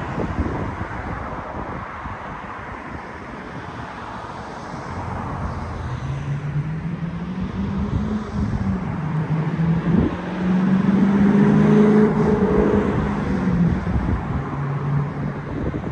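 A motor vehicle's engine hum over a steady rumbling noise; the hum comes in about five seconds in, grows loudest about twelve seconds in, then fades.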